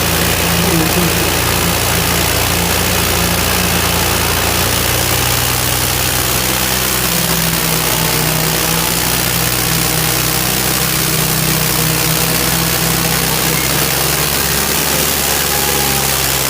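Tractor diesel engine running steadily under load, its note shifting about six seconds in.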